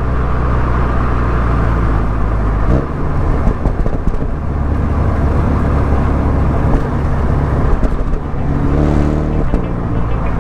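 Mini Cooper S engine and exhaust running under way on a winding road, with tyre and road noise; the engine note changes pitch about a quarter of the way in and again near the end as the driver works the throttle through the bends.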